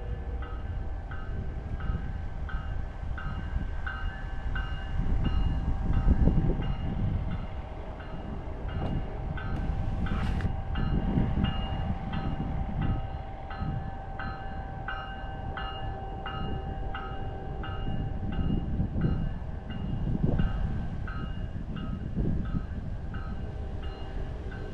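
CSX freight train rolling past, a heavy low rumble that swells and eases, with a high ringing that repeats about twice a second throughout.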